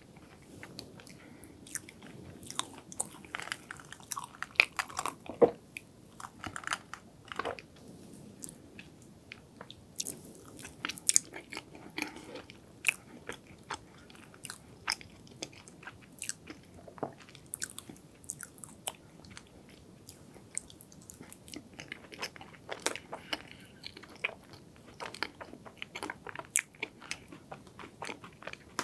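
Close-miked chewing of chocolate hazelnut cake: irregular wet mouth clicks and smacks, with some crunching of the chopped-hazelnut coating.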